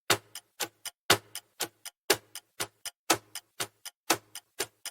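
Countdown-timer ticking sound effect: a loud tick every second with three softer ticks between, about four ticks a second, counting down the answer time.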